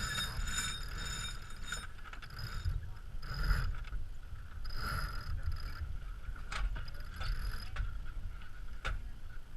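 Sailboat under way: wind buffeting the microphone and water rushing along the hull in a steady, uneven rumble, with a few sharp clicks of deck gear during the jibe.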